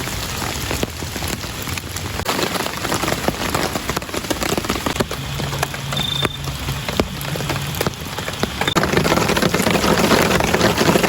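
Heavy rain falling, with many separate drop hits over a steady hiss; it grows louder about eight seconds in.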